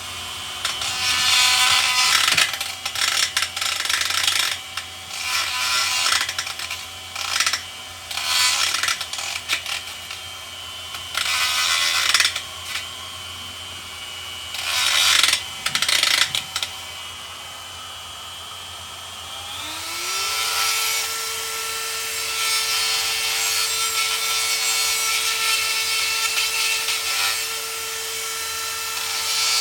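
Hand grinder smoothing rough casting slag from the oil drain-back openings of a cast-iron 383 engine block. A steady high whine is broken by repeated loud bursts of grinding for the first half; about twenty seconds in, the tool spins up to a new pitch and grinds continuously.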